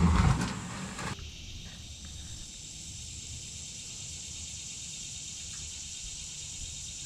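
Steady high-pitched drone of insects chirring outdoors. A low rumble underneath cuts off suddenly about a second in.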